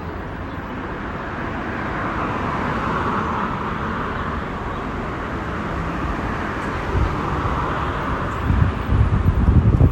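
Road noise from passing vehicles, swelling twice and fading. Gusts of wind rumble on the microphone near the end.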